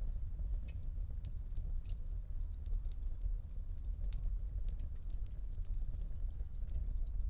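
Wood fire crackling in a fireplace: frequent small, sharp pops at irregular intervals over a steady low rumble of burning.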